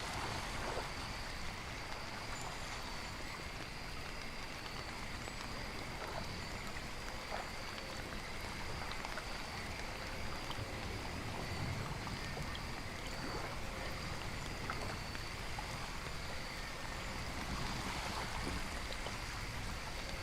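Steady recorded rain-and-nature ambience: an even wash of rain and running water, with scattered small drop ticks and faint steady high tones.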